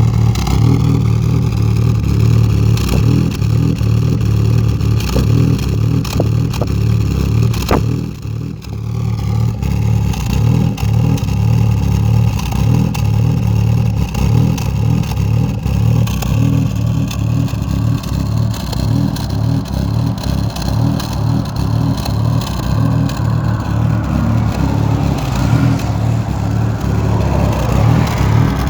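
Loud vehicle exhaust with an engine running, a deep steady note with rattling through it. It drops briefly about eight seconds in, and the pitch shifts slowly in the second half.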